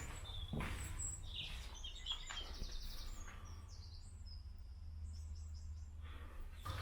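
Bird-like chirping: short high notes and a quick trill, repeated for a few seconds in the middle, over a steady low hum and a few soft knocks.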